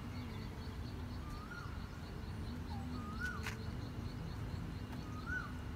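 A bird repeating a short whistle that slides up and then drops, about every two seconds. Underneath runs a faint fast even ticking and a steady low rumble.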